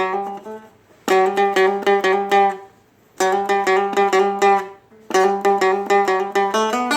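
Acoustic guitar, with a capo-like fake fret, picking a quick country intro riff in three short phrases, with hammer-ons on the low string.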